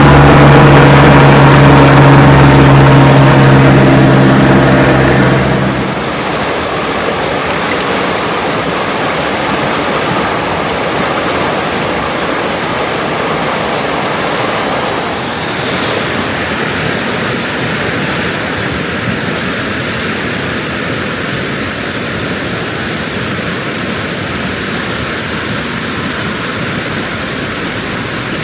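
A vehicle engine runs with a steady hum for about six seconds and then fades away. Steady rushing water from a stream or waterfall is left.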